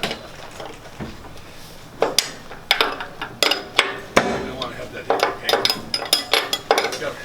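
Wrenches and other metal hand tools clinking and clanking against steel fittings. About two seconds in a quick run of sharp metallic clinks with brief ringing begins and keeps on, as the tools are worked on a fitting.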